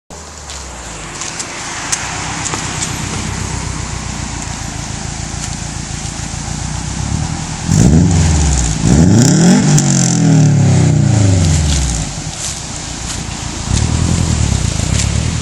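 Exhaust of a 2007 Subaru WRX's turbocharged boxer engine, with a COBB catted downpipe, COBB midpipe and SPT cat-back, running steadily at first. About eight seconds in it is revved sharply several times, the pitch rising and falling back with each rev. It is raised again near the end.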